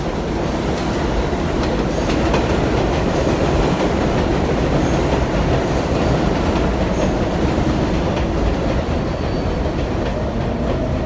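New York City 7 subway local train pulling into an elevated station, its wheels rumbling and clattering on the rails. A whine falls in pitch near the end as it slows.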